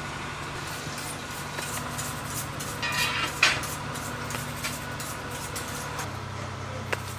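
A steady low mechanical hum with faint steady whines above it, and scattered clicks and knocks; a brief hiss with a sharp knock about three seconds in.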